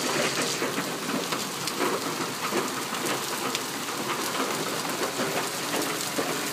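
Hail mixed with heavy rain pelting down, a dense steady patter of many small sharp hits.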